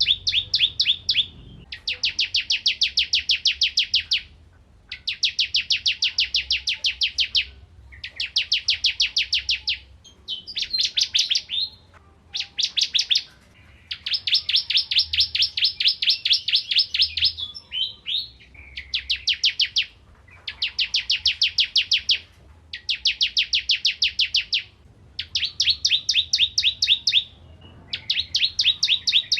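Ciblek kristal prinia singing: fast runs of sharp, high repeated notes, about ten a second, in phrases of one to three seconds with brief pauses between.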